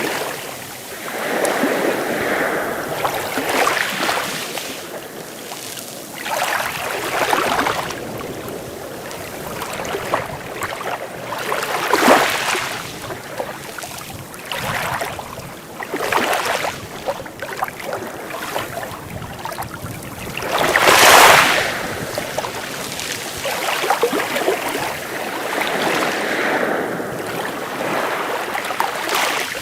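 Sea waves washing in, each wash swelling and then fading every few seconds, the loudest about two-thirds of the way through.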